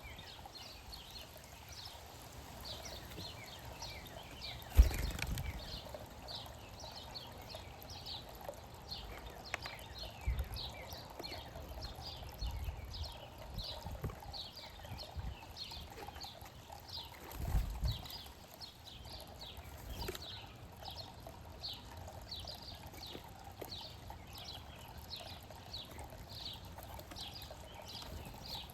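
Small birds chirping over and over, short falling chirps a few each second. A sharp knock comes about five seconds in, and low thuds and rumbles come now and then, the loudest near the end of the second third.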